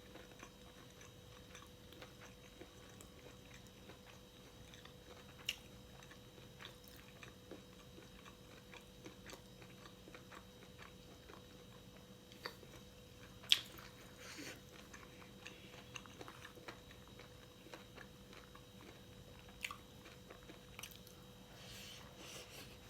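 A person chewing and biting food close to the microphone: faint wet mouth sounds with scattered short crunchy clicks, the sharpest about halfway through.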